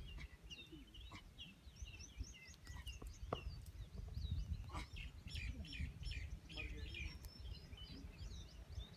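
Small birds chirping in many quick, short notes over a steady low rumble.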